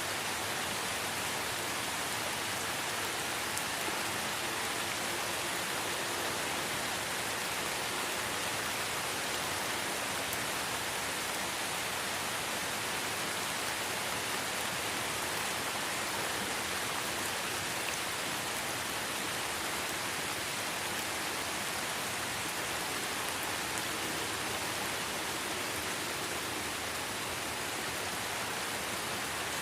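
Steady light rain pattering on leaves and foliage: a constant even hiss with fine drop patter, without change.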